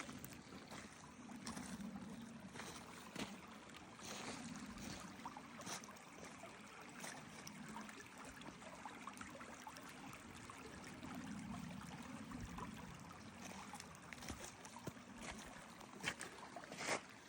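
A stream running steadily, with many small scattered clicks.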